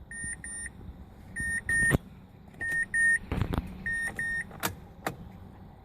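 Car's electronic warning chime beeping in pairs, four pairs about every second and a quarter, with a few sharp clicks and a thump in between.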